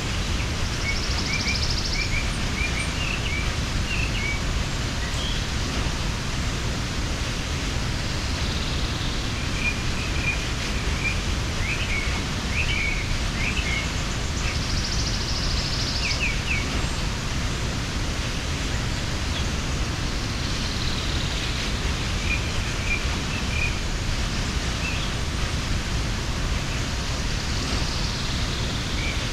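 Waterfall rushing in a steady, even roar of falling water. Small birds chirp in short scattered bouts over it, several times.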